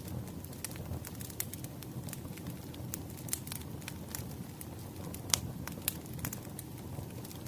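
Wood fire crackling: irregular sharp pops and snaps over a steady low rumble of burning, with one louder pop about five seconds in.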